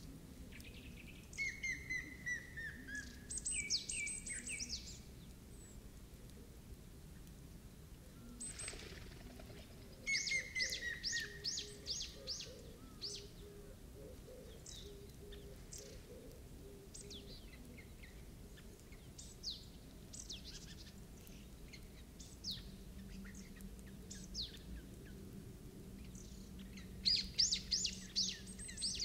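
Small birds chirping and singing. Three bursts of rapid high chirps come near the start, about ten seconds in and near the end, two of them with a short run of falling whistled notes, and single scattered chirps fall in between.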